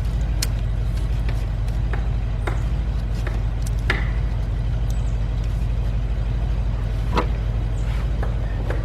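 Scattered metallic clicks and taps of hands and tools on engine-bay parts while a bolt is being lined up, over a steady low rumble, with the sharpest clicks about four and seven seconds in.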